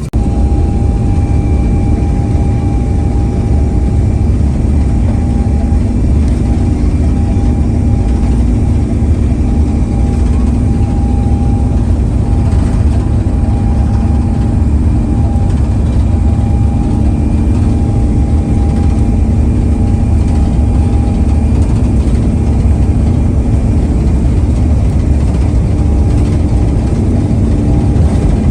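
Airbus A350-900's Rolls-Royce Trent XWB engines and airframe heard from inside the cabin: a loud, steady low rumble with a steady hum over it.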